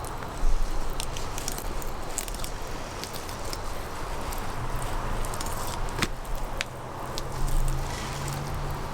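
Knife slicing and working through a trout's flesh and bones while filleting, with small wet clicks and handling knocks and a thump about half a second in. A low hum comes in near the end.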